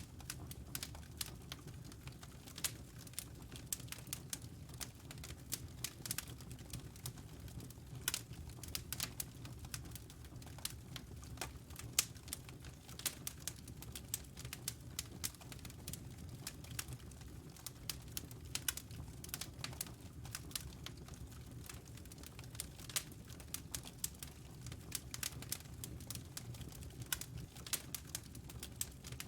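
Wood fire in a fireplace crackling: irregular sharp snaps and pops, several a second, over a low steady rumble.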